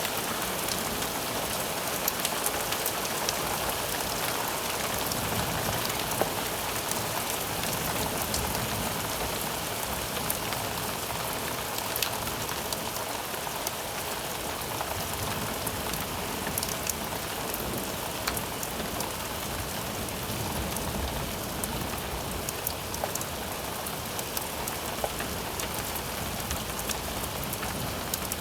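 Steady heavy rain falling during a thunderstorm, with scattered sharp ticks of drops hitting close by.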